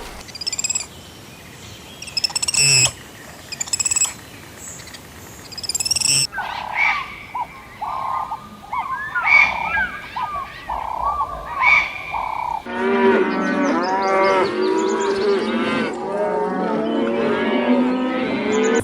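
Animal calls in three stretches: high-pitched chirping, then a run of repeated single calls, and from about two-thirds of the way in a chorus of many animals calling over one another.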